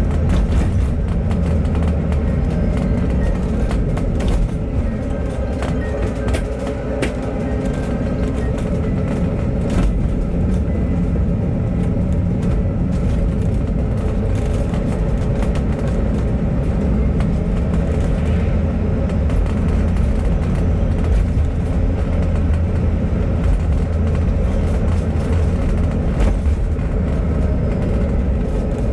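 Bus running along the road, heard from inside the cabin: a steady low engine and road rumble with scattered rattles and clicks. A faint drive whine rises and falls in pitch at the start and again near the end as the bus changes speed.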